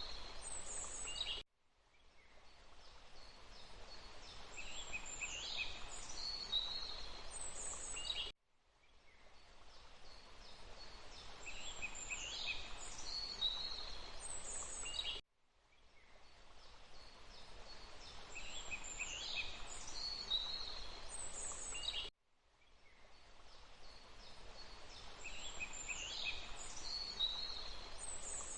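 Forest ambience of small birds chirping and calling over a steady rushing background. It is a short recording looped about every seven seconds, the same bird phrases each time. Each loop ends in an abrupt drop to silence and fades back in, four times in all.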